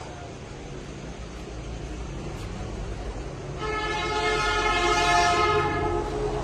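A low engine rumble, then a steady horn sounding for about three seconds, starting a little past halfway in and stopping sharply at the end.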